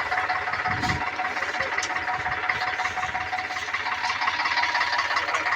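Tractor diesel engine running steadily, with a fast, even knocking pulse.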